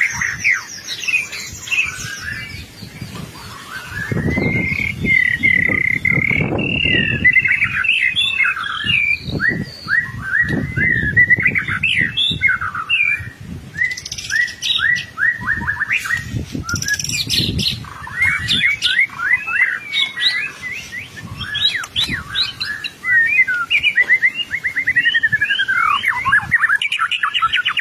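White-rumped shama (murai batu) in full song: a fast, varied, unbroken stream of whistled phrases and chattering notes.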